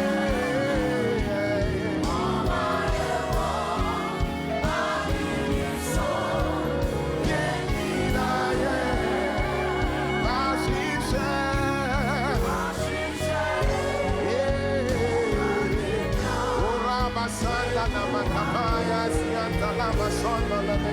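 Gospel worship music: singing voices carry a wavering, ornamented melody over continuous instrumental backing.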